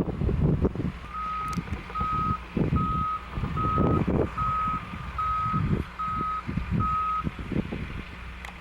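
A vehicle's backup alarm beeping eight times at one pitch and a steady pace, a little more than one beep a second, then stopping. Gusty low rumbling runs underneath.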